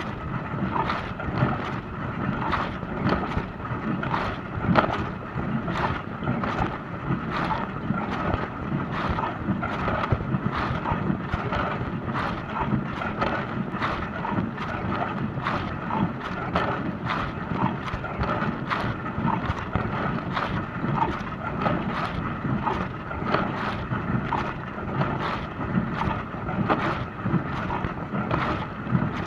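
Dishwasher running a wash cycle: a steady rush of water spraying inside the tub, with a constant irregular patter of splashes.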